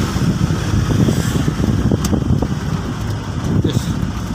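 Truck engine and road noise while driving, a steady low rumble with a couple of faint clicks.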